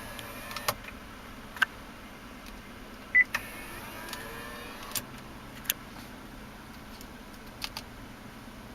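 Scattered light clicks and one short electronic beep about three seconds in as the H2's touchscreen navigation unit is pressed, over a faint steady cabin hum.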